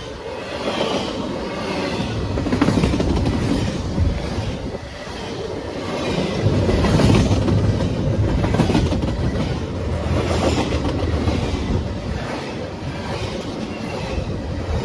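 A train rolling past: a continuous rumble and clatter of wheels on rail that swells and eases in waves.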